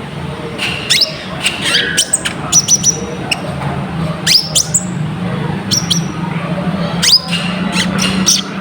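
Konin (kolibri ninja) sunbird singing its rapid, chattering 'ngobra' song: sharp high notes that sweep steeply downward, mixed with short flat whistles, in an irregular run. A steady low hum sits beneath.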